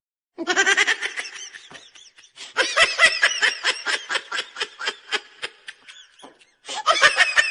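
A person laughing hard in rapid, pitched bursts of several a second, in three long runs with short breaks between.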